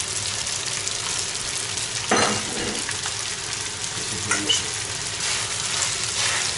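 Food sizzling steadily in hot oil in a kazan, with garlic just added, as it is stirred. A louder scrape of the utensil against the pot comes about two seconds in, and lighter ones just after four seconds.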